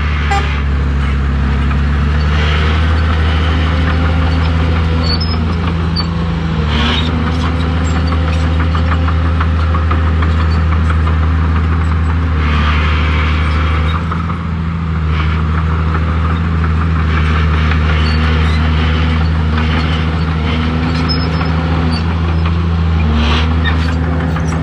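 Bulldozer's heavy diesel engine running under load. Its pitch dips and recovers several times as it pushes, and brief scraping clanks from the working machine come through a few times.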